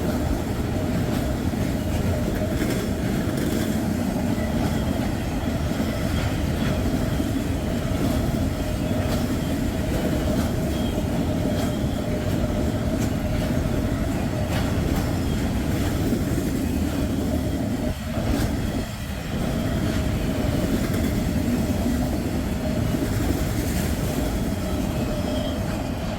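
Freight train cars rolling past at speed: a steady rumble of steel wheels clacking over the rail joints, with a steady squealing tone from the wheels over it.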